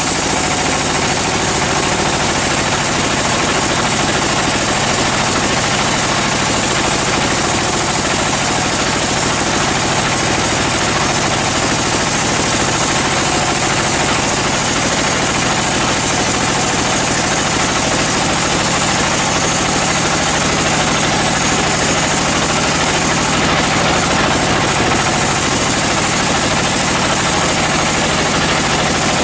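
Sawmill machinery running steadily: an even, engine-like drone under a loud bright hiss.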